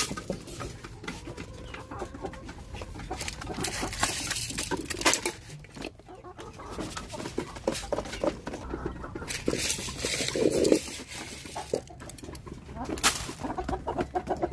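Backyard chickens clucking while they peck at scattered corn, with many quick sharp pecking taps and a short call about two thirds of the way through.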